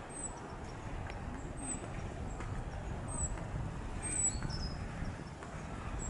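Small birds giving short, thin, high-pitched chirps, about five scattered calls, over a steady low rumble. A few faint clicks are also heard.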